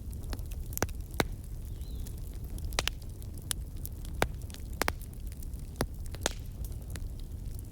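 Fire crackling: irregular sharp pops and snaps, about a dozen, over a steady low rumble.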